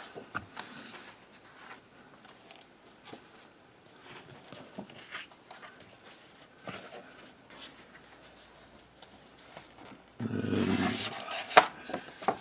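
Printed paper sheets being handled and sorted, with faint rustles and small taps. About ten seconds in, a louder low voice-like sound lasts about a second.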